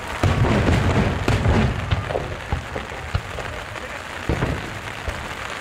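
Aerial fireworks shells bursting: a rapid barrage of booms and crackling bangs in the first two seconds, then scattered single bangs, with a heavy one about four and a half seconds in. The bangs sound over a steady hiss of rain.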